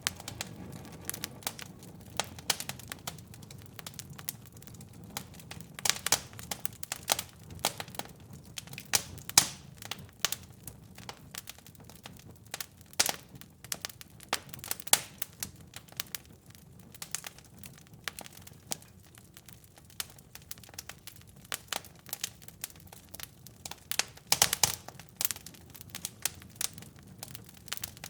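Wood fire burning in a fireplace: irregular sharp crackles and pops over a low, steady rumble of the flames, with a cluster of louder pops near the end.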